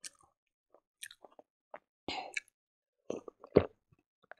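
Close-up chewing of a mouthful of silkworm fry: a scatter of short mouth clicks. One louder knock comes about three and a half seconds in.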